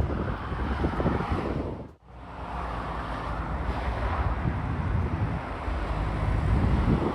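Motorway traffic passing, with wind buffeting the microphone. The sound cuts out abruptly for a moment about two seconds in, then carries on.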